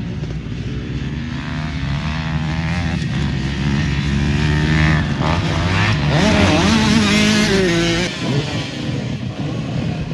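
Motocross dirt bike engines revving hard, their pitch rising and falling with throttle and gear changes. One bike grows loudest about halfway through and drops away sharply near the end.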